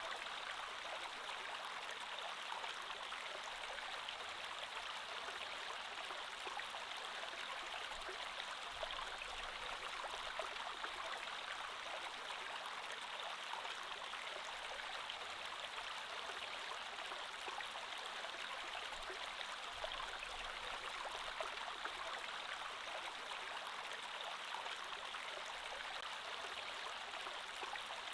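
Creek water flowing steadily over stones, a continuous babbling rush with small splashes.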